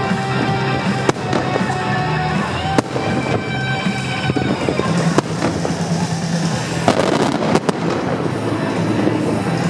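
Fireworks shells bursting with sharp bangs, a few spaced apart and then a quick cluster of cracks about seven seconds in, over music playing throughout.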